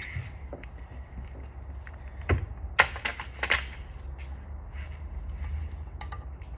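Hand tools clicking and clinking against metal while working on tight bolts of a Honda F22C engine, with a cluster of sharper knocks from about two to three and a half seconds in, over a low steady hum.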